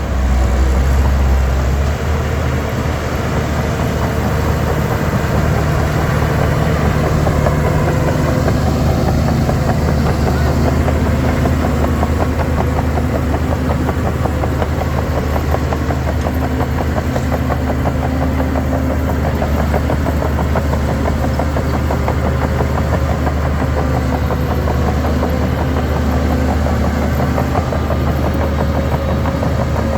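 Shantui DH17 C3 bulldozer's diesel engine running steadily at work, with a dense mechanical rattle over the low engine hum; slightly louder in the first couple of seconds.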